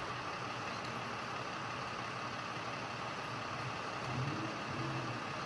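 A vehicle engine idling steadily under a constant hiss, its low hum swelling slightly about four seconds in.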